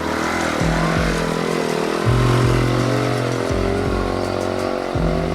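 Vehicle engine running, its pitch wavering up and down, over background music with a bass line that steps from note to note.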